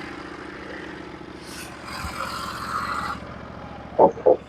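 Norwood HD36v2 portable sawmill's engine running steadily at idle, with a stretch of extra noise midway and two short sharp sounds near the end.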